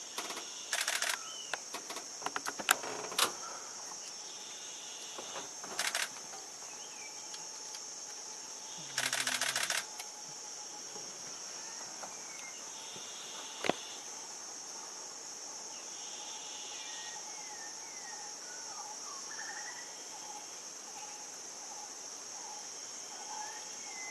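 Steady high drone of insects in the bush, with a few faint short bird chirps. Over it come several bursts of rapid clicking from a camera shutter firing in quick succession. The longest burst lasts about a second, near the middle, and a single sharper click comes a few seconds later.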